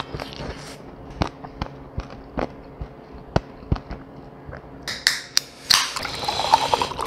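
Close-miked chewing of fried chicken: sharp mouth clicks and crunches at irregular intervals, a few a second. About five seconds in, a fizzing hiss and short splashing tones as a cola is poured into a glass.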